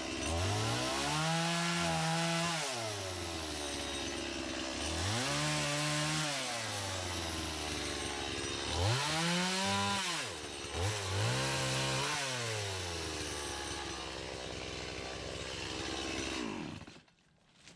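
Gas chainsaw revving up and falling back four times, as in cutting wood, each rev held for a second or two. The sound cuts off suddenly near the end.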